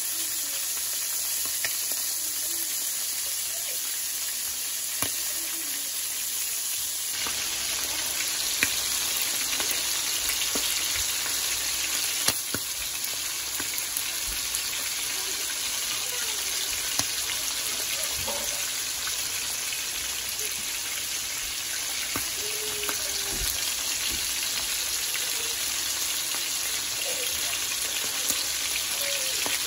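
Skewered sheep kidneys frying in hot oil in a frying pan: a steady sizzle with scattered sharp pops and spits of fat, the sizzle getting brighter about seven seconds in.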